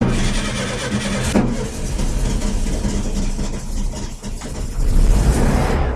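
A car engine running steadily, with a sharp knock about a second and a half in and a louder stretch near the end.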